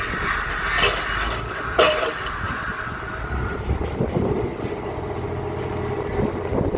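Pile-driving rig's engine running steadily, with two sharp metallic bangs about a second apart near the start, the second the louder.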